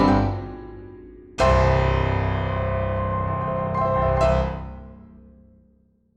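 Background piano music: a fading chord, then a loud, deep chord struck about a second and a half in, held and left to ring, fading out to silence near the end.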